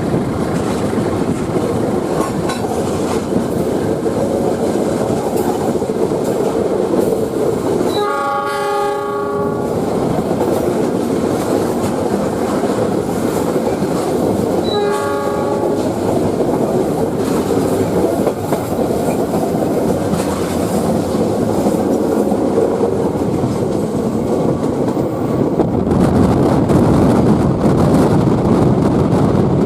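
Passenger train running on rails, heard from aboard: a steady rumble of wheels on track. The locomotive's horn sounds twice, a longer blast about eight seconds in and a shorter one about fifteen seconds in. Near the end the rumble grows louder.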